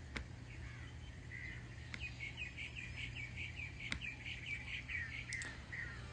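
Faint bird chirping: a few scattered chirps, then a quick run of about four chirps a second lasting a few seconds, with several sharp clicks in between.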